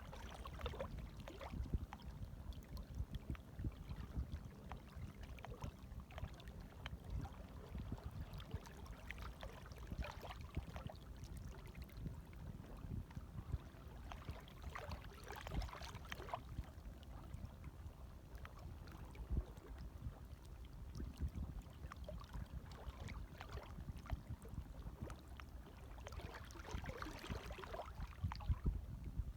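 Light waves lapping, a continuous low sloshing of small water movement with a few louder splashes, around halfway through and again near the end.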